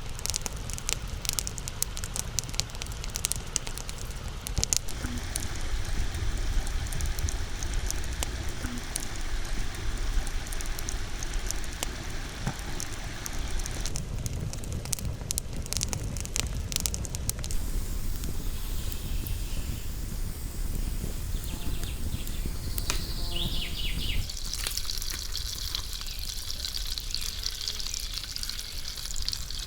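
Campfire crackling and popping over steady outdoor background noise, the pops dense at first and fewer in the second half.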